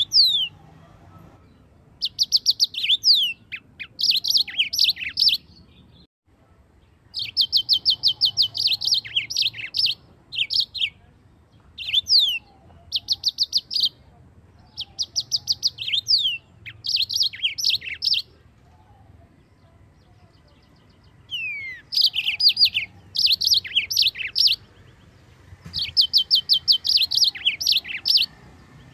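Yellow-fronted canary (Mozambique canary) singing: high phrases of rapid trills and down-slurred whistles, each lasting one to two seconds, repeated after short pauses.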